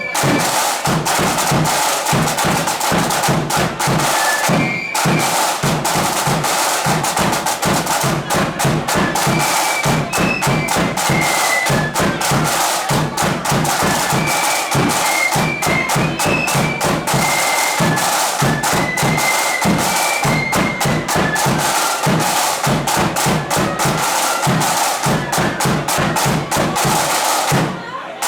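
Marching flute band playing a tune: the flutes carry a high melody over rapid, continuous snare drumming and bass drum.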